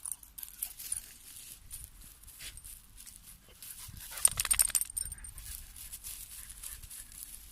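Small sounds from a dog close by, with a loud burst of rapid clicks about four seconds in.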